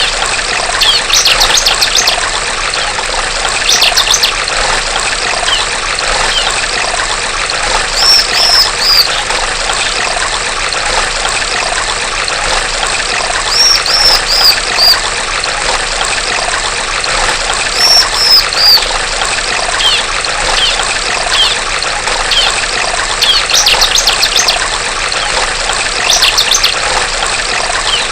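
Steady trickling of running stream water, over which a female bar-winged prinia calls every few seconds in short runs of three or four high chirps.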